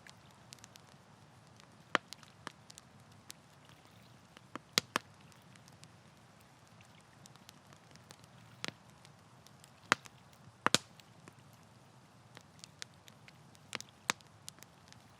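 Wood campfire crackling: irregular sharp pops and snaps, a handful of them louder than the rest, over a low, steady hiss.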